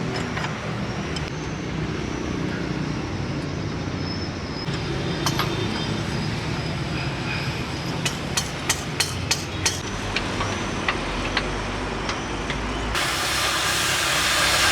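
A machine runs steadily. About eight seconds in come about six sharp knocks in quick succession, roughly three a second. Near the end a loud steady hiss starts.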